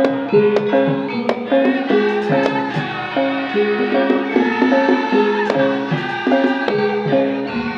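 Javanese gamelan playing an opening gending: struck metallophones ring out a stepwise melody of held notes, with sharp drum strokes keeping time.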